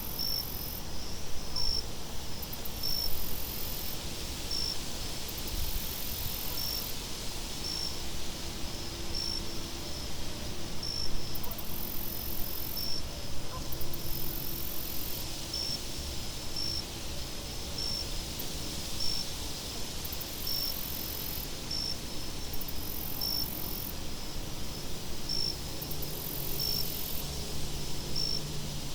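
Crickets chirping at an even pace, about one chirp every second and a half, with higher insect trills coming and going, over a steady low rumble of wind.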